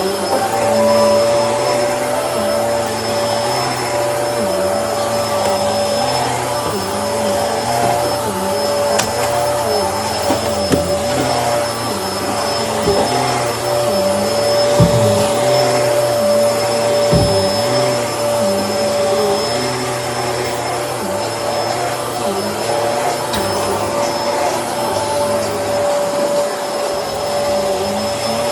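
Bissell Helix upright vacuum cleaner running steadily with a whine, its lower tone dipping and recovering over and over. A few brief knocks come near the middle.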